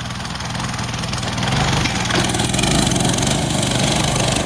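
Coleman mini bike's small single-cylinder four-stroke engine running hard under load, growing louder over the first three seconds and then holding steady.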